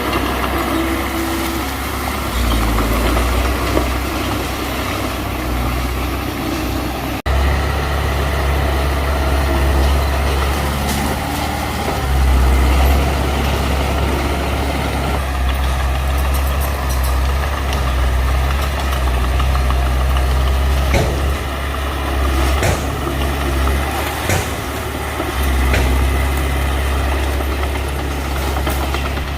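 Heavy earthmoving machine's diesel engine running steadily with a deep low drone. It breaks off for an instant about a quarter of the way in, and a few sharp knocks come in the second half.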